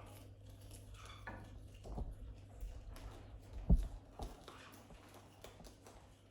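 A few scattered light knocks and clicks, with one louder low thump a little after the middle.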